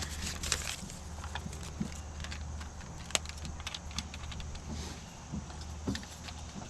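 Scattered light clicks and rattles of small parts and tools being handled, with one sharper click about three seconds in, over a steady low hum.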